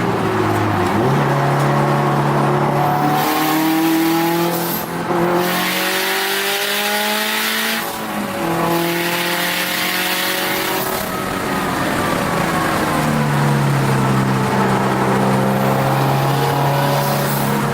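Turbocharged Subaru WRX STi flat-four race engine heard from inside the car at speed on a road course. It pulls hard with rising revs, and a quick upshift drop comes about eight seconds in. It climbs again, then the revs fall away as it slows and settles to a steadier lower note.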